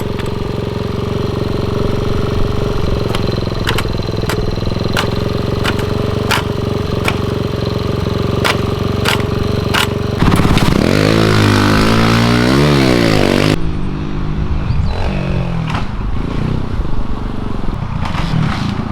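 Kawasaki KLX 110 pit bike's small four-stroke single-cylinder engine running steadily, with sharp clicks and knocks over it. About ten seconds in, it revs up and down hard for a few seconds, then drops back to uneven running that sounds thinner.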